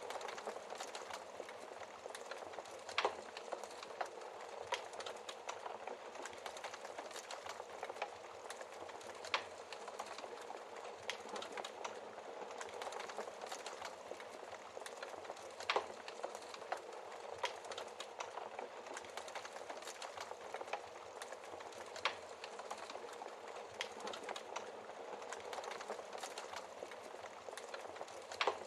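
Wood fire crackling in a fireplace: a steady hiss and flutter of burning with many small irregular crackles and an occasional louder pop.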